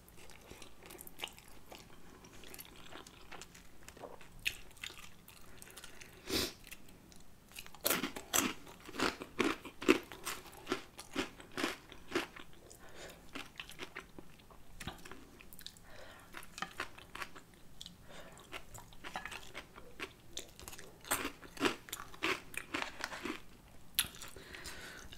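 Close-miked chewing and biting of a mouthful of spicy ramen noodles with crunchy Flaming Hot Cheetos, made up of irregular sharp crunches that come thickest in two runs, a third of the way in and again near the end.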